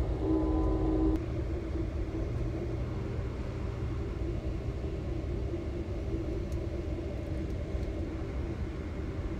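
Steady low rumble of a moving train with a droning hum. The sound is louder for about the first second, then drops and settles into an even rumble.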